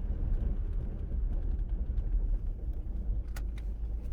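Car on the move: a steady low rumble of tyres and engine, with a couple of light clicks about three and a half seconds in.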